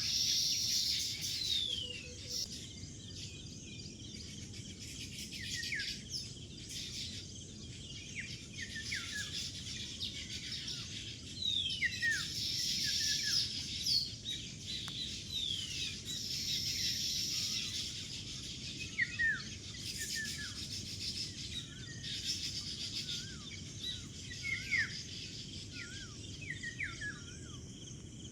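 A flock of baya weavers calling: many quick, downward-sliding chirps overlapping throughout, with a high wheezy buzzing note drawn out every few seconds, over a steady low background hiss.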